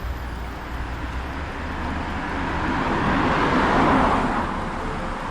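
A road vehicle passing close by: its engine and tyre noise swells to a peak about four seconds in and then fades.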